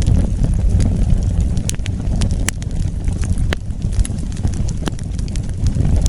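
Wood fire burning with a steady low rumble of flames and scattered sharp crackles and pops, about one a second.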